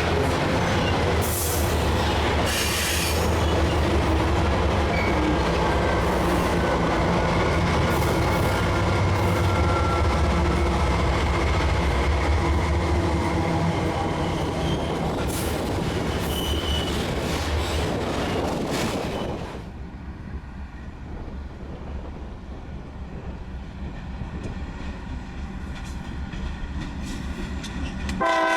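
Diesel-hauled freight train rolling past: a steady low locomotive engine drone with wheels clacking over rail joints and faint wheel squeal. After about 20 s the sound drops abruptly to a quieter rolling rumble, and a train horn blast begins right at the end.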